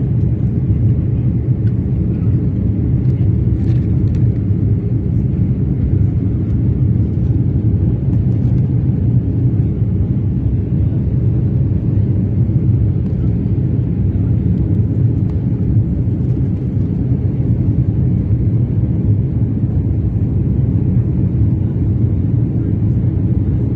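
Steady low rumble of a jet airliner's engines and airflow heard from inside the passenger cabin during takeoff.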